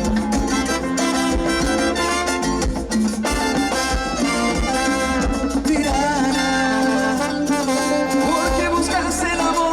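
Live Latin dance band playing an instrumental passage with a steady beat.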